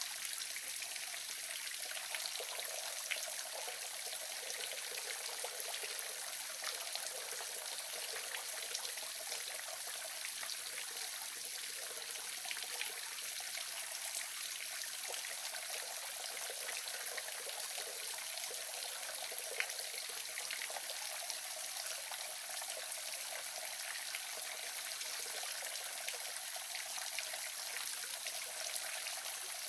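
Small waterfall running steadily: an even rush of falling water with scattered splashing drips.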